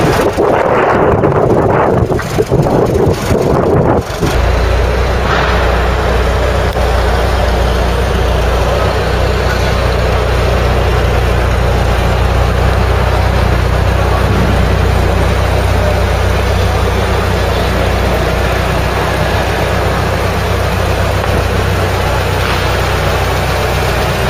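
Ford Cortina Mk3 engine running: uneven for the first few seconds, with a few brief dips, then settling about four seconds in into a steady low idle.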